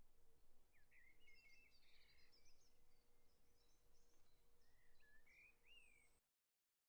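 Faint outdoor ambience with birds calling: short whistled, chirping phrases that glide up and down, one group about a second in and another near the end. A faint steady hum and low background noise lie under them, and all sound cuts off abruptly shortly before the end.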